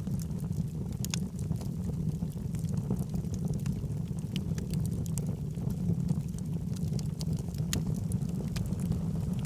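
Wood logs burning in a fireplace: a steady low rumble of flame with scattered sharp crackles and pops.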